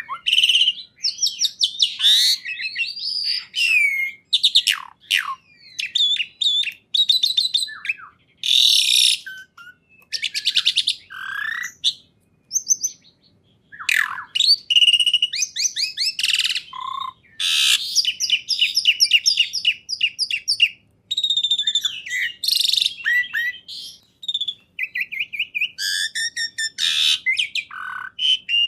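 A songbird singing a loud, varied song of quick whistles, rapid trills and chattering phrases, broken by short pauses, with a longer pause about halfway through.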